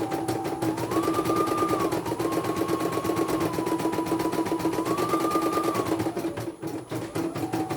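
Computerized embroidery machine stitching: fast, even needle strokes over a steady motor whine. The whine steps up and down in pitch as the machine changes speed. Near the end it slows and nearly stops for about a second, then picks up again.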